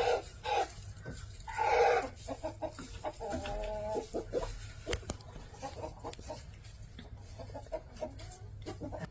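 Chickens clucking in the henhouse: two loud squawks in the first two seconds, a drawn-out call a little later, then a run of soft, short clucks.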